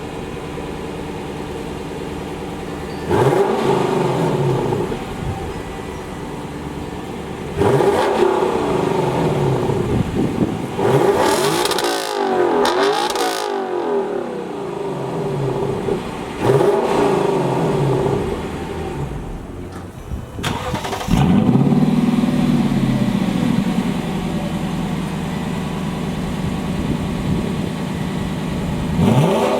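A 2019 Lexus LC500's naturally aspirated 5.0-litre V8 idling with a series of sharp throttle blips, the revs rising and falling back each time, several in quick succession near the middle. About two-thirds through, a sudden louder burst settles slowly back to a fast idle.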